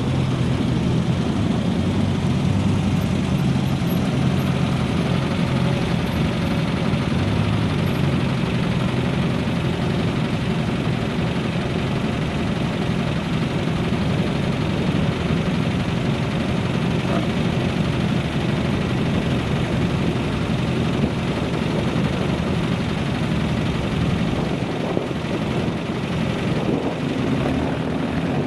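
Classic car engine running at a steady idle, a continuous low engine note with no revving.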